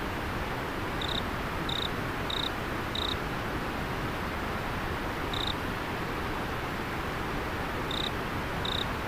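River water flowing with a steady rush. Over it an insect gives short, high chirps: four evenly spaced about a second in, one near the middle and two near the end.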